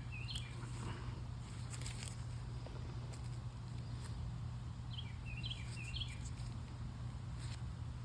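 A songbird sings a short phrase of quick chirps, once at the start and again about five seconds in, over a steady low hum. A few brief scuffs come about two seconds in.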